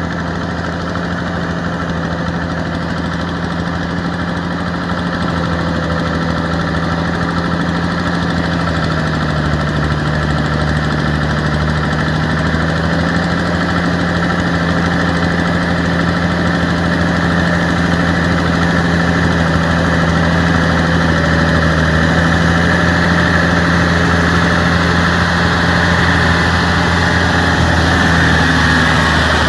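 Yanmar EF725T tractor's diesel engine running steadily. Its pitch dips slightly about nine seconds in and comes back up a few seconds later, and it grows gradually louder.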